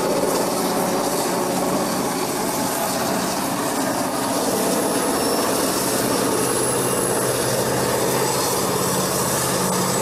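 Freight train passing close by: a loud, steady rolling noise of wheels on rails with a low steady hum underneath.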